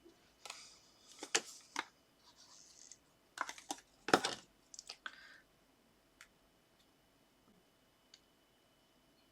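Paper craft pieces being handled and pressed onto a card: two short runs of light clicks, taps and paper rustles, the sharpest tap just after four seconds in, then only a few faint ticks.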